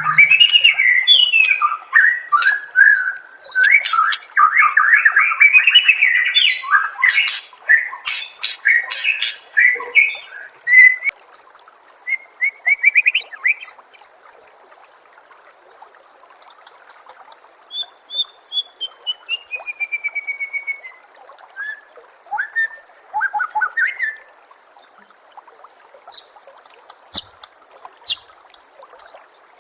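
White-rumped shama (murai batu) singing, a rapid run of varied phrases for the first ten seconds or so, then sparser phrases including a long falling whistle, and scattered short chips near the end. Faint steady trickling water runs underneath.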